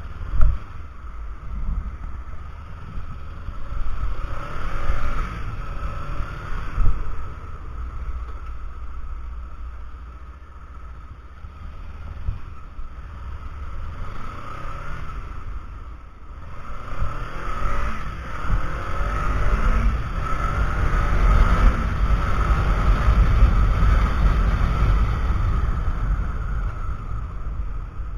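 Kawasaki Ninja 300 parallel-twin engine under way, its pitch rising and falling as the rider works through the revs, under heavy wind buffeting on the action camera's microphone. It is loudest and highest in the second half.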